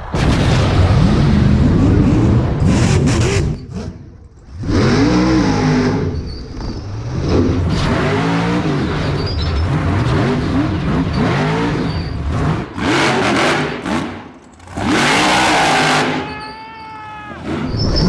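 Monster truck's supercharged big-block V8 revving hard again and again, its pitch rising and falling, with brief drops off the throttle.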